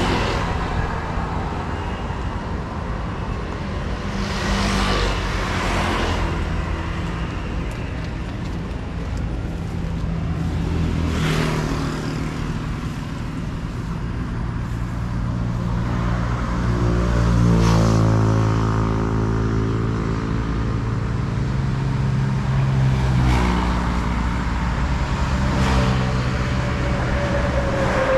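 Road traffic with heavy truck engines running and passing, a rush of passing vehicles several times over a steady low rumble, and one engine rising and falling in pitch about two thirds of the way through.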